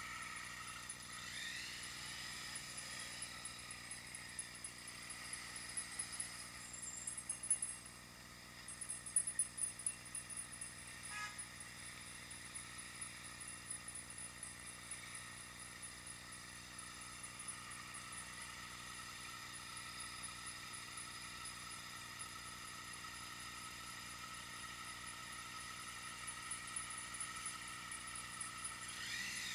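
Faint riding noise on a bicycle, picked up by an action camera riding along. A steady high whine runs under it, and a flurry of rattles and knocks comes about eight to ten seconds in.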